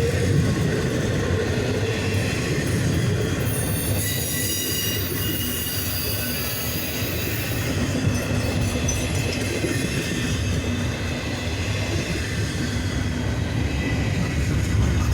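Cars of a double-stack container train rolling past with a steady rumble of wheels on rail, overlaid by high-pitched wheel squeal that wavers in and out.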